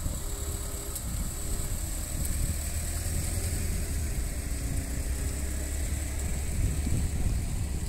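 Lada Niva 4x4 driving past on a dirt road, its engine running with a steady low rumble.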